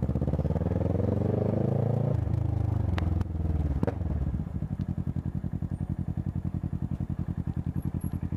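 Motorcycle engine revving up for about two seconds, the revs dropping off suddenly, then settling into a steady, pulsing idle as the bike comes to a stop. Two sharp clicks about three and four seconds in.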